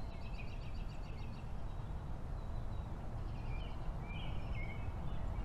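Birds chirping in short trills, a few at a time, over a low steady background noise, like an outdoor nature ambience.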